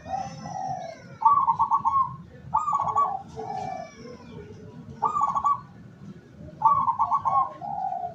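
Zebra dove (perkutut) cooing: about six short trilled phrases of quick pulsed coos with pauses between them, some phrases pitched a little lower than others.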